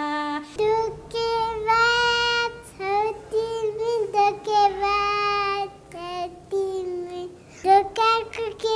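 A woman singing a Nepali song in a high voice, in held, wavering notes with short breaks between phrases.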